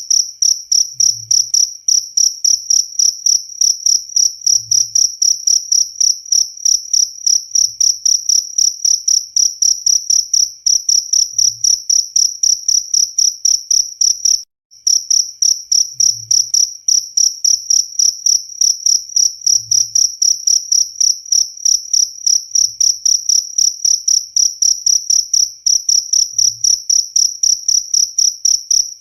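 Cricket chirping loudly: a shrill, high-pitched trill pulsing several times a second, with a brief break about halfway through.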